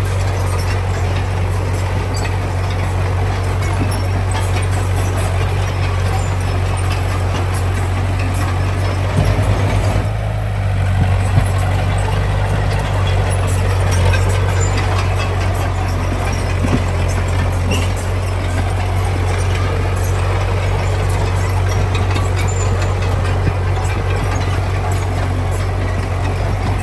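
Heavy diesel earthmoving machinery working: a steady low engine drone under a dense mechanical clatter and grind, with a brief shift in the sound about nine to eleven seconds in.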